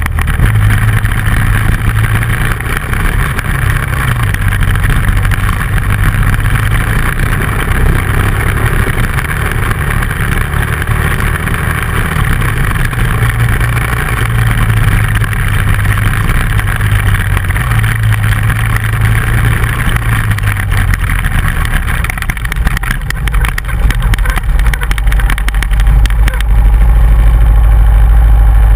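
Dual-sport motorcycle engine running while riding a dirt road, its pitch stepping up and down with the throttle. About 26 seconds in it settles into a steady, lower idle as the bike stops.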